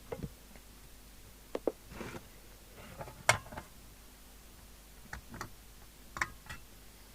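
A few scattered clicks and knocks of equipment being handled on a workbench, the sharpest about three seconds in, over faint room noise.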